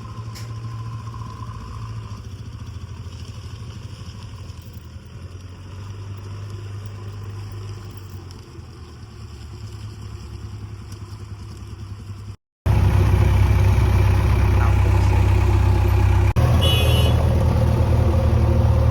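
Heavy machinery diesel engine running steadily. About twelve seconds in the sound cuts out briefly, then an engine comes back much louder and closer.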